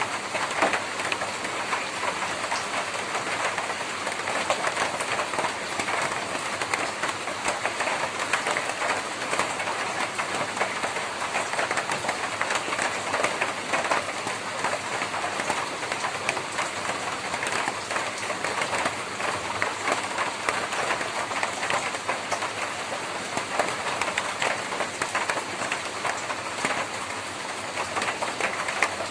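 Rain drumming steadily on a tin roof, a dense even patter of many small drop impacts.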